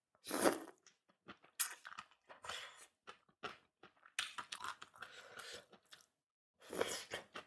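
Close-miked chewing and crunching of food in irregular bursts with short pauses between bites, typical of a mukbang eating stir-fried vegetables and rice.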